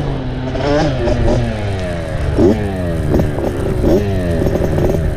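Dirt bike engine revving up and down as the throttle is worked, its pitch rising and falling several times over a steady low drone.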